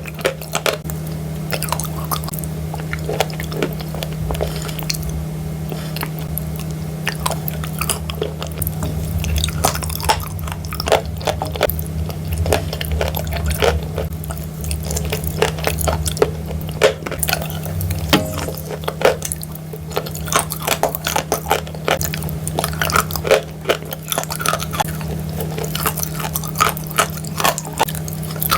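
Chalk coated in wet clay paste being crushed, a dense run of irregular crunches and crackles with soft squishing, over a steady low hum.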